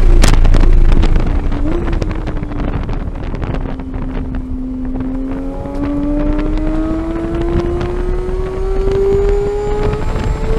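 2015 Porsche 911 GT3's flat-six engine on track: revs fall as the car slows through a corner, then climb steadily under hard acceleration, with a sudden drop in pitch at a quick upshift near the end. Wind and road noise run underneath.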